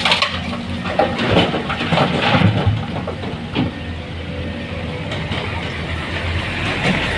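Diesel engine running steadily under an irregular rattling clatter of stones being loaded into a truck.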